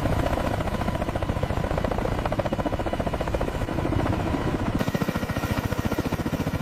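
Helicopter rotor beating in a rapid, steady rhythm. About five seconds in, the sound changes abruptly: the deep part thins out and a brighter hiss comes up, while the beating goes on.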